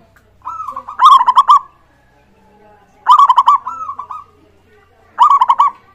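Zebra dove (perkutut) singing its cooing song: three phrases of quick, rolling, pulsed coos, spaced about two seconds apart.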